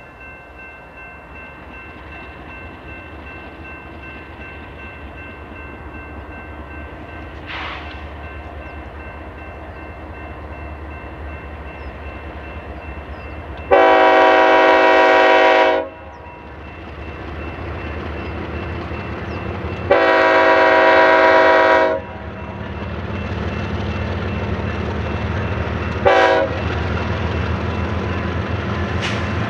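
Approaching BNSF freight train: the locomotive rumble grows steadily louder as the lead locomotive's air horn sounds two long blasts, a short one, and the start of a final long one. This long-long-short-long pattern is the standard grade-crossing warning.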